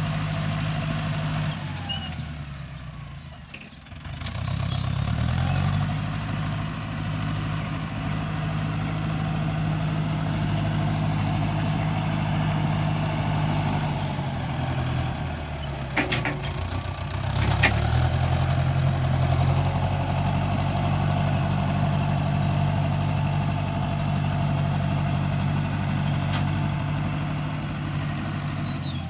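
Farm tractor's diesel engine running while ploughing, its revs sagging twice, about two seconds in and again around sixteen seconds in, then climbing back up. Two sharp clanks come near the second dip.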